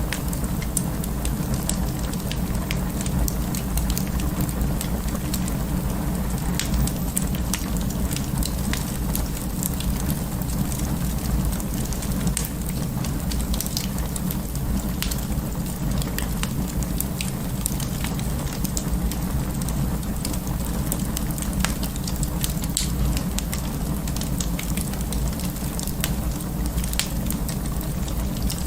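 Wood fire in an open fireplace crackling steadily: a low rumble of the flames with irregular sharp pops and snaps throughout.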